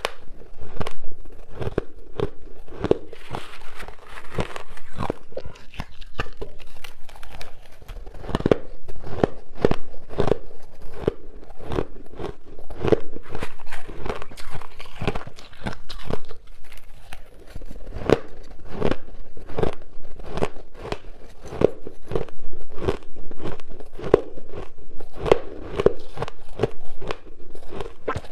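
Close-miked bites into soft, chunky freezer-frost ice: a steady run of sharp crunches, several a second.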